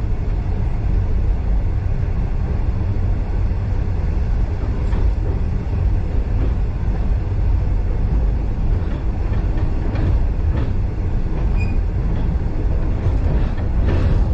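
Running noise of a passenger train heard from inside a carriage: a steady low rumble of wheels on the track, with a few faint clicks from the rail joints.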